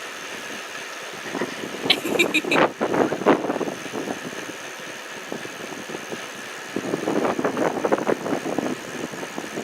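Wind and rolling noise from a bicycle being ridden. About two seconds in comes a quick run of four short high chirps.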